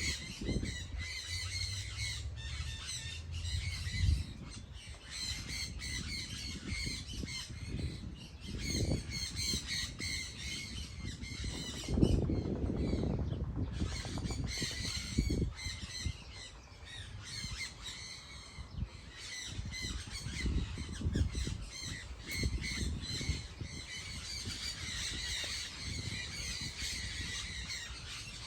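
Many birds calling and chattering continuously, a dense mix of harsh squawks and chirps. Low rumbles come and go beneath them, the loudest about twelve seconds in.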